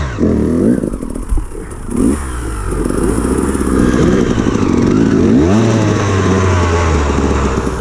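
Enduro dirt bike engine revving under throttle, its pitch rising and falling several times, then held higher for the last couple of seconds.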